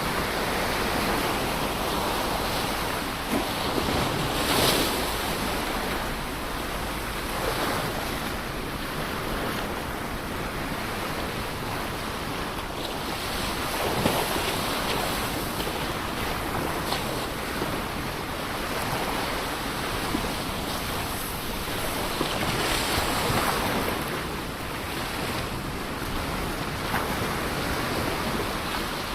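Ocean waves breaking and washing on the shore, a continuous surf noise that swells with louder breakers about five seconds in, around the middle and again near the end. Some wind buffets the microphone.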